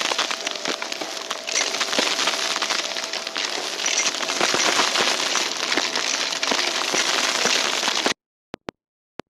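Vacuum cleaner sucking up crunchy debris, with dense crackling and crunching as the bits rattle up through the brushroll. It cuts off abruptly about eight seconds in, followed by a few faint clicks.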